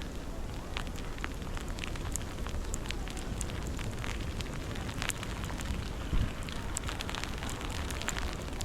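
Wind rumbling against the microphone during a snowstorm, with irregular crackling clicks scattered throughout and a louder thump about six seconds in.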